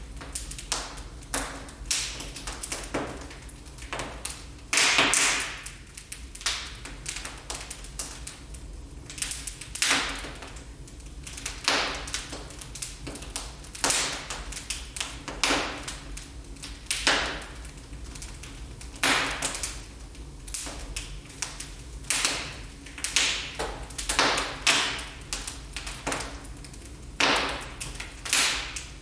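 Wood fire burning in a fireplace, crackling and popping irregularly, with sharp snaps every second or so over a low steady rumble.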